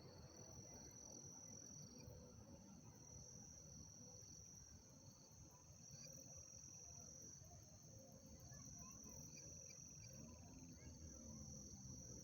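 Faint crickets chirping, a steady high trill that swells and fades every second or two.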